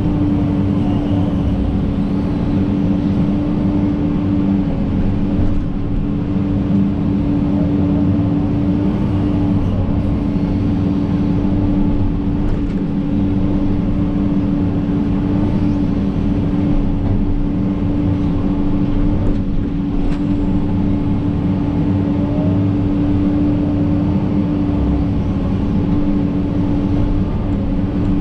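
John Deere 130G excavator's diesel engine running steadily, with a constant droning tone over a dense low rumble.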